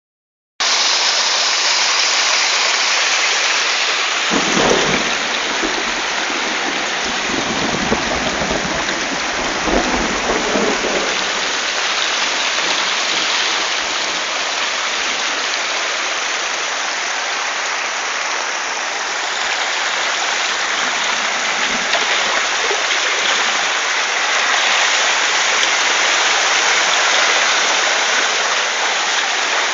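Heavy rain pouring down in a steady, dense hiss, with low rumbling swells twice in the first half.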